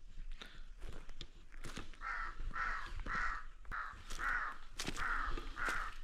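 A crow cawing: a run of about eight harsh caws, roughly two a second, starting about two seconds in, with scattered sharp clicks around them.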